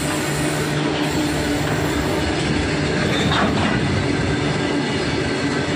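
Freight train wagons rolling past: steady noise of steel wheels on rail, with a brief falling squeal about three seconds in.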